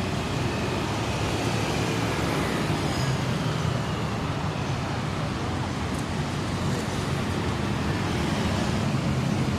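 Steady road traffic noise, a continuous hum of passing vehicles.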